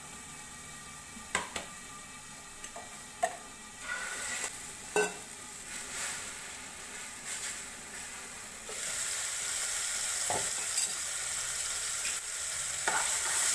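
Oil sizzling as an egg omelet cooks on a tawa and onions with ginger-garlic paste fry in a kadai, with a few sharp taps and scrapes of a spatula on the pan. The sizzle grows louder about nine seconds in, when the kadai's lid comes off.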